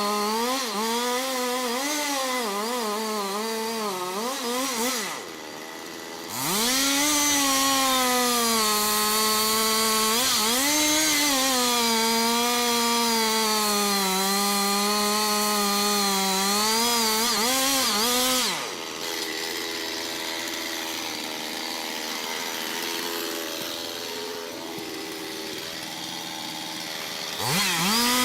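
Two-stroke chainsaw running at high revs while cutting into a big tree, its pitch sagging and recovering as the bar bites into the wood. About five seconds in it dips briefly and revs back up. Past the middle it drops to a quieter, lower run, then revs up again near the end.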